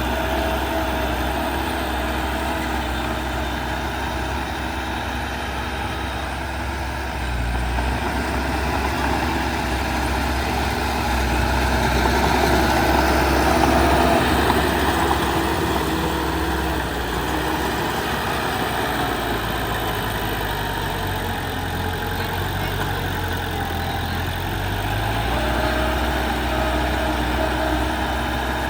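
Heavy diesel engine of earthmoving machinery, a bulldozer or dump truck, running steadily. It grows louder about halfway through, then settles, and its engine note shifts a couple of times.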